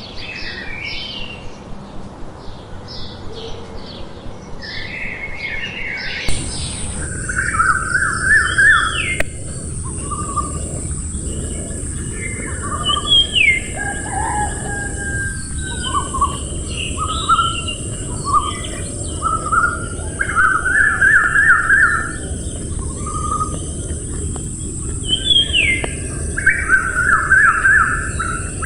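Birds chirping and calling, with short repeated chirps and quick trills. About six seconds in the background changes abruptly to a different recording, with a steady high hiss under the calls.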